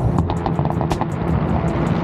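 Car engine running with its exhaust crackling and popping, a quick string of about eight sharp cracks in the first second over a low rumble.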